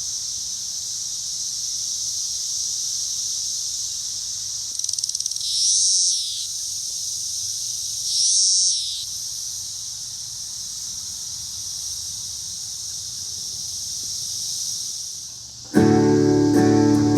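A dense chorus of cicadas: a steady, high-pitched drone, with two louder swells about five and eight seconds in. Acoustic guitar music comes in suddenly near the end.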